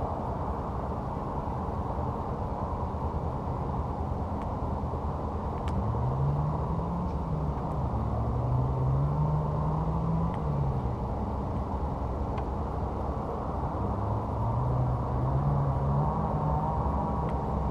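Off-road vehicle engine running over a steady low rumble, its pitch rising and falling in two spells of revving. A few faint sharp ticks sound over it.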